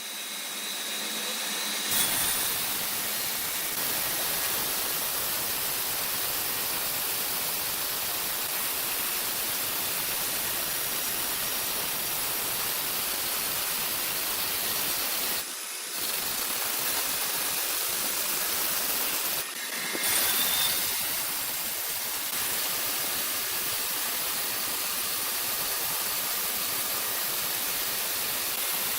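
Steady, hissing machinery noise, mostly high-pitched, broken by short breaks about two, fifteen and twenty seconds in.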